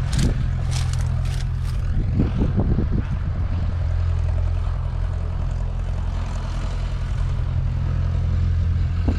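John Deere 8RX 410's 9.0-litre six-cylinder diesel engine running at a steady speed with a deep, even hum. A few sharp clicks or knocks come in the first two seconds.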